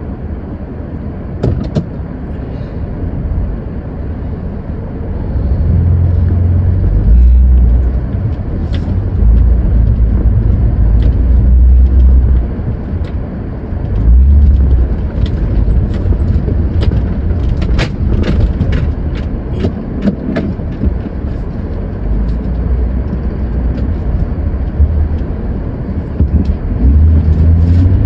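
Van rumble heard from inside the vehicle: a loud, uneven low rumble that swells and eases every few seconds, with scattered light clicks or rattles, most of them in the middle.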